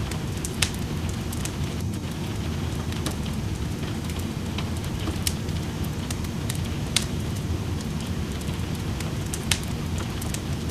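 Fireplace wood fire crackling with scattered sharp pops, over a steady rush of rain.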